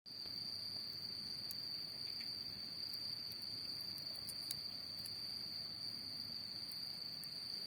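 Autumn night insects chirring in one steady, unbroken high-pitched drone, with scattered small sharp pops from a crackling campfire.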